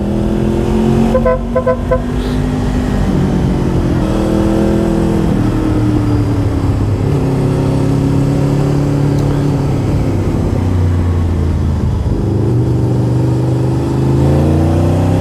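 Motorcycle engine running under way, its pitch rising and falling with the throttle. About a second in, a horn gives a quick run of short beeps.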